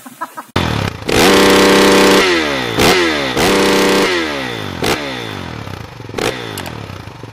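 Motorcycle engine revved hard, starting abruptly about half a second in: held at high revs for about a second, dropping, revved again, then winding down with falling pitch. Several sharp cracks come between the revs.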